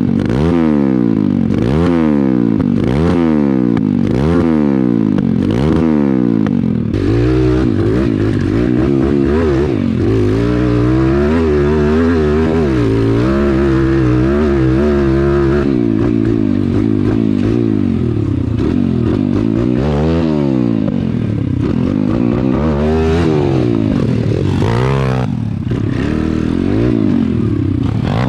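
Pit bike engine revving up and down as it is ridden off-road. Quick rises and falls come about once a second for the first several seconds. Then it is held higher with the throttle working, and later rises and falls in slower, separate surges.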